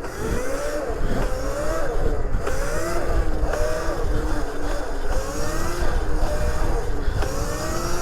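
Electric motor whine of a 76-volt Razor MX500 electric pitbike, rising in pitch with each burst of throttle and dropping back, several times over, with a low rumble of wind on the microphone.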